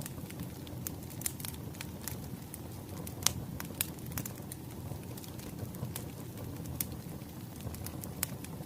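Wood fire crackling, with irregular sharp pops over a steady low rumble; the loudest pop comes a little over three seconds in.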